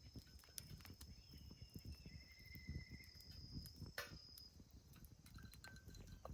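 Faint outdoor ambience: insects chirring in a steady high tone, a short faint trill about two seconds in, and scattered light clicks, one sharper click about four seconds in.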